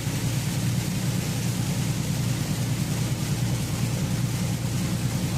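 Steady low drone of a semi truck on the road, heard from inside the cab, under an even hiss of tyres on wet pavement and rain.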